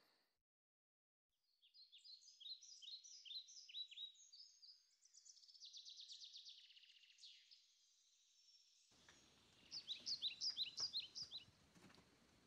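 Songbirds singing, faint and high-pitched: runs of quick falling notes and trills, then a fast series of sharp chirps near the end.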